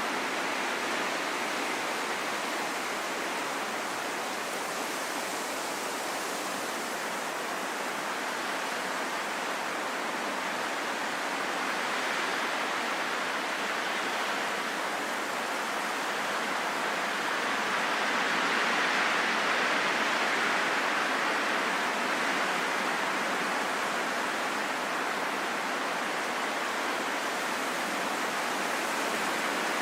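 Steady rain in a forest: an even, dense hiss with slow, gentle swells in loudness, no single drops or other sounds standing out.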